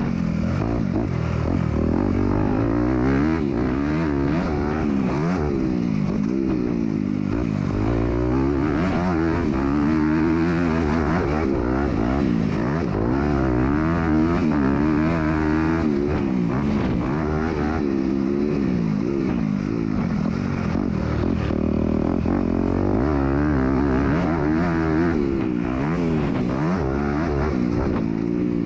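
MX2 motocross bike engine racing on the track, revving up and falling back again and again as the throttle is opened and closed, heard from the bike itself.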